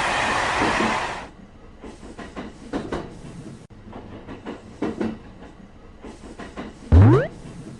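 Train sound effects: a loud rushing noise of a passing train that cuts off about a second in, followed by scattered, quieter clicking and rattling of wheels on the rails. Near the end comes a brief, loud rising whine.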